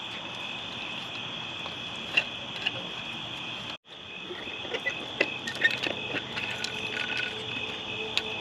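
Steady chorus of night insects, a continuous high trill, with scattered light clicks and taps. The sound cuts out completely for a moment just before four seconds in.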